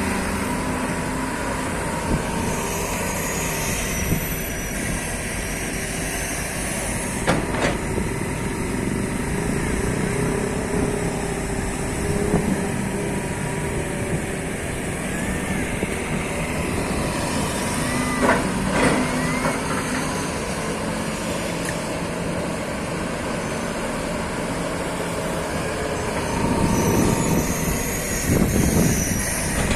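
Hydraulic excavator's diesel engine running steadily at work, with a few sharp knocks and brief squeals along the way.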